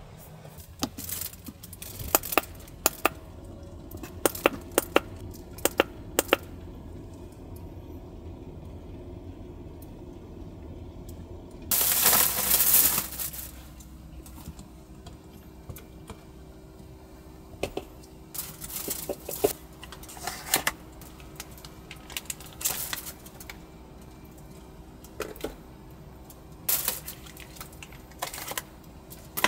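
Small hard objects clicking and clinking as things are handled, in scattered sharp taps. A louder rushing noise lasts about a second and a half, about twelve seconds in. A faint steady hum starts soon after.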